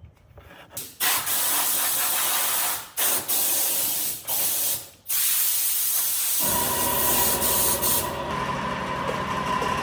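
Air spray gun hissing in several bursts of a second or more with short breaks, as a finish is sprayed. About two-thirds of the way through, a motor starts up and keeps running with a steady hum under the spraying.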